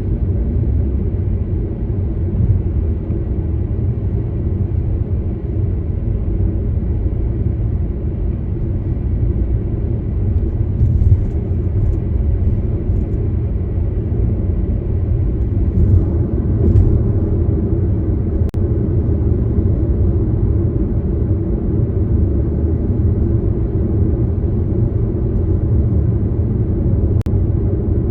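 A car driving, with a steady low rumble of road and engine noise and a couple of faint clicks.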